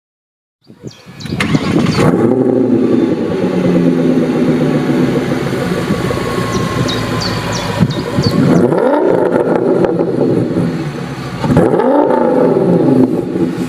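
Audi S8 with a BAQ aftermarket exhaust, the engine running loud through the exhaust. It revs up and back down twice, around the middle and again near the end.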